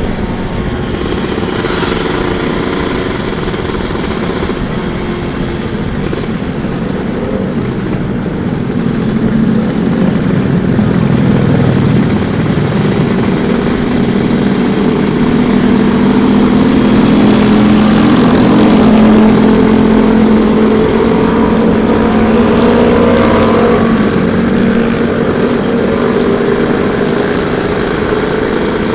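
Kawasaki Ninja 150-class two-stroke single-cylinder motorcycle engine running under way. The revs and loudness climb about a third of the way in, hold higher through the middle and ease back near the end.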